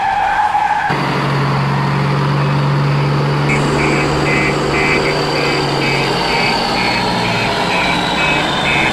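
A vehicle engine running with a steady low drone, and a short high beep repeating about twice a second.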